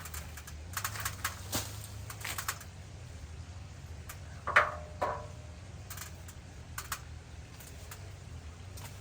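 Irregular light clicks and snaps at an uneven pace, with a short squeak about four and a half seconds in, over a steady low hum.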